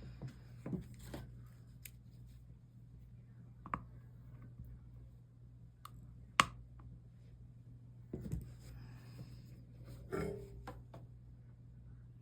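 Scattered light clicks and taps of small tools and pieces being handled at a stained-glass workbench, one sharp click about six seconds in, with brief rustling near the end, over a low steady hum.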